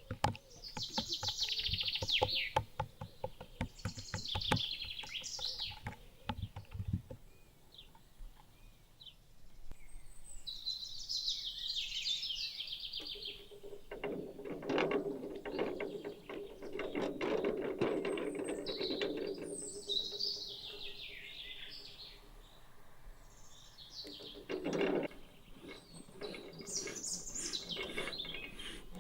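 Wild birds singing in short repeated phrases, over irregular clicks and knocks. A lower steady sound with clicking runs from about halfway through for several seconds.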